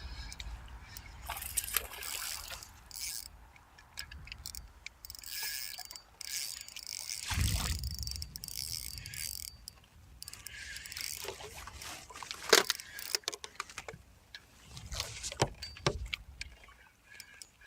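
Handling noises in a small fishing boat while a bass is fought and landed: scattered clicks, rattles and rustles, with a louder low knock about seven and a half seconds in and a sharp click near twelve and a half seconds.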